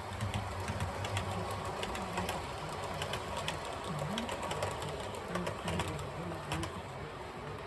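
HO scale model train running along the track: the small locomotive motor whirs steadily, and the wheels click irregularly over rail joints.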